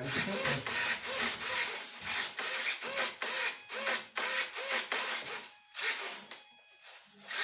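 Repeated hand rubbing or rasping strokes, about two a second, each with a slight squeak, pausing briefly near the end.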